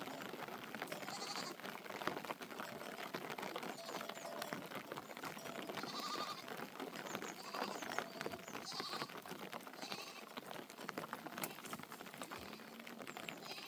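Sheep bleating several times, in short separate calls, over a steady dense patter of fine clicks.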